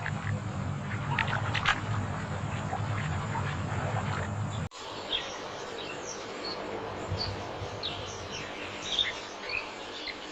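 Animal calls. After a cut about five seconds in, short high chirps come scattered through the rest, over a low steady hum that is louder before the cut.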